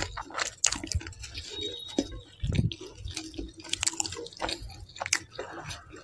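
Close-miked wet chewing with many short mouth clicks and lip smacks, a soft low bump about two and a half seconds in, and naan being torn by hand about four seconds in.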